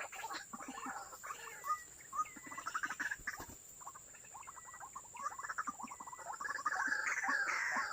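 White-breasted waterhens calling: a fast, croaking chatter of repeated notes that grows louder near the end.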